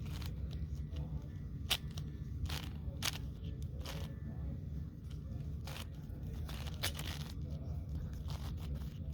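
Puzzle cube being turned by hand: irregular quick clicks as the layers snap round, several a second, over a steady low hum.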